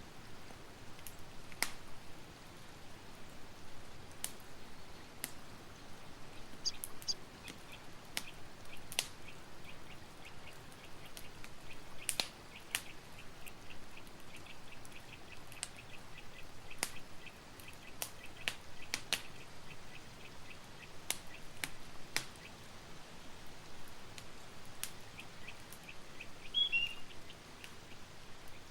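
Campfire crackling over a steady hiss, with scattered sharp pops. A rapid high-pitched trill of short chirps runs through the middle, and a couple of short chirps come near the end.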